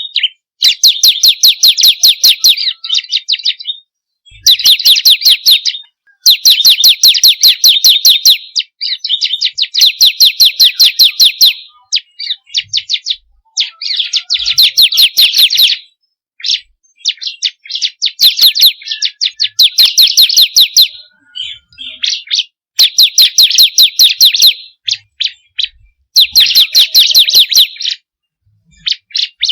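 Bar-winged prinia (ciblek kristal) singing: repeated bursts of rapid, evenly spaced high chipping notes, about eight a second, each burst lasting one to two seconds with short pauses between.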